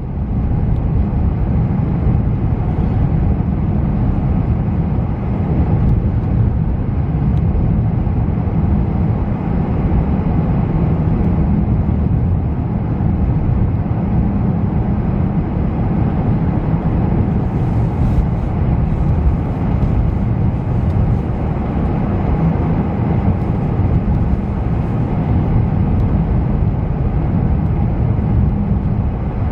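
Steady low rumble of a car driving: engine and road noise, with no distinct events.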